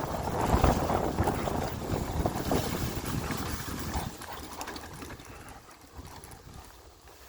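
Dirt bike engine running with wind buffeting the microphone, fading away after about four seconds.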